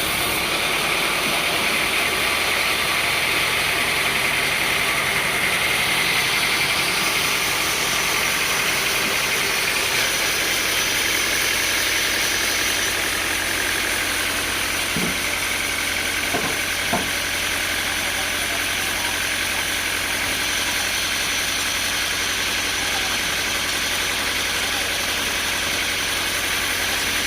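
Sawmill machinery running steadily, with a thin whine that drifts slowly in pitch. A few short knocks come about halfway through.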